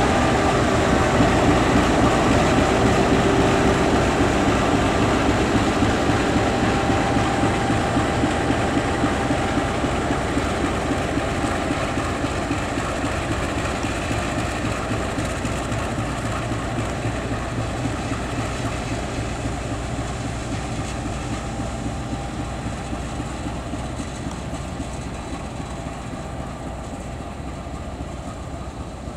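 Diesel locomotive-hauled train rolling past on the rails: wheels clattering steadily and the diesel engine running, with faint falling squeals at the start. The sound fades slowly as the train moves away.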